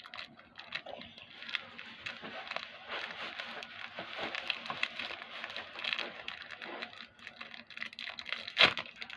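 Wrapper of a Pokémon Trick or Trade booster pack crinkling and tearing as it is opened by hand, with many small crackles and one sharp click near the end.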